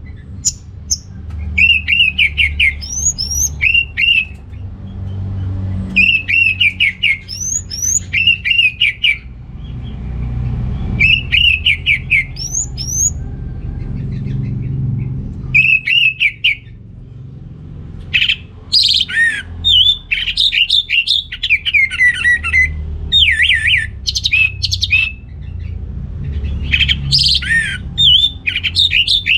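Orange-headed thrush (anis merah) singing in full, vigorous 'gacor' song, the kind played to provoke other birds, especially males, into singing. It gives short, quick whistled phrases about every two seconds, then breaks into a denser, more varied run of song a little past halfway, over a low background rumble.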